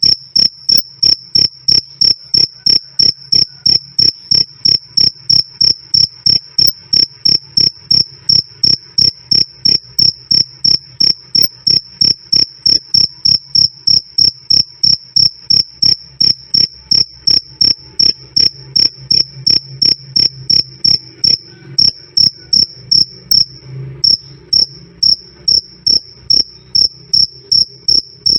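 A male cricket calling loud and clear: a steady, even train of high-pitched chirps, about three a second, breaking off briefly about three quarters of the way through. A faint low hum lies beneath.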